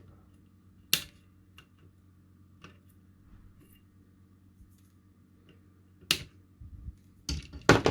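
Side cutters snipping the excess leads off a freshly soldered LED on a small circuit board: sharp clicks, one about a second in and several more near the end.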